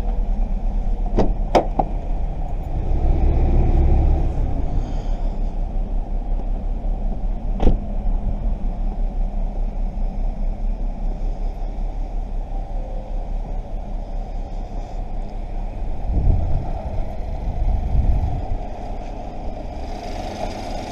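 2013 Chevrolet Captiva running at idle with a steady low hum, its newly keyed engine started. A few sharp clicks come in the first eight seconds, and a low rumble swells up twice.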